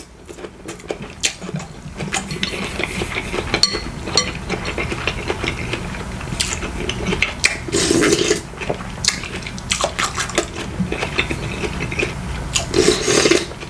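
Close-up eating sounds: chopsticks clicking and scraping against a bowl, with chewing and liquid slurps of broth, louder about eight seconds in and again near the end.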